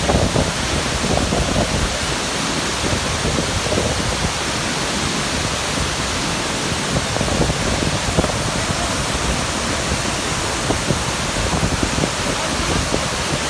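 A large waterfall's steady rush of falling water and spray.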